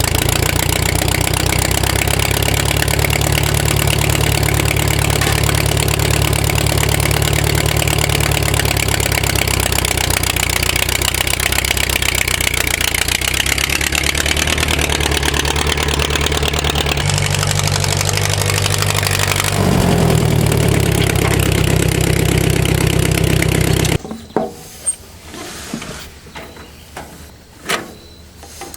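Vehicle engine running steadily, its note stepping in pitch partway through with a brief rise in revs. About 24 s in it gives way suddenly to quieter, scattered knocks and clicks.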